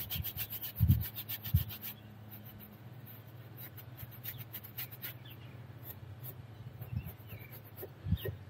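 Rapid scrubbing strokes, about nine a second for the first two seconds, as the end-link mounting seat on the front suspension is cleaned by hand, then fainter scattered rubs and a few soft knocks.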